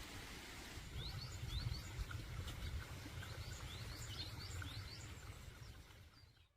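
Small birds chirping in many short, rising calls over a low steady rumble of outdoor background noise, fading out near the end.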